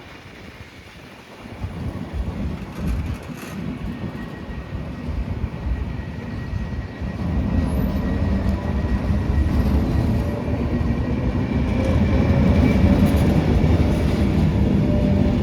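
Train running by, its low rumble growing steadily louder from a couple of seconds in, with faint steady high tones over it.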